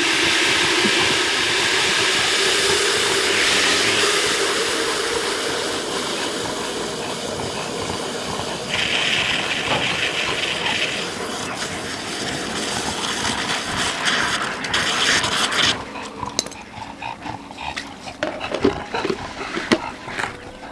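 Water running steadily at full flow as a water container is filled for the animals; the flow cuts off abruptly about fifteen seconds in.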